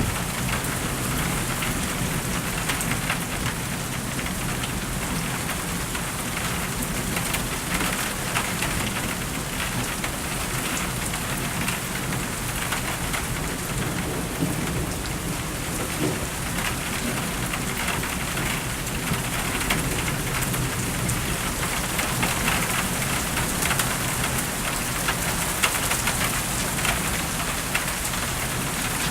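Steady rain falling during a thunderstorm, with low rumbling of thunder beneath it.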